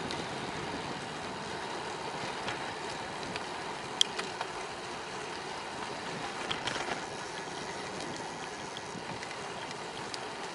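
Bicycle on the move: steady rush of tyre and wind noise, with a sharp click about four seconds in and a few small rattles a little later.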